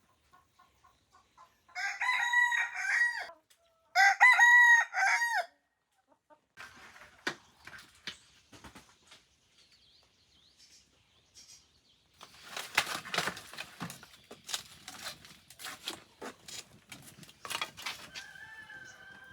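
Rooster crowing twice in close succession, followed by scattered knocks and a stretch of clattering.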